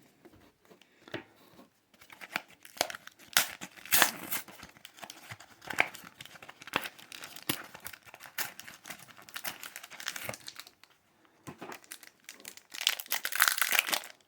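Pokémon card pack packaging crinkling and tearing as it is opened by hand: a long run of crackles, a brief lull, then a louder burst of crinkling near the end.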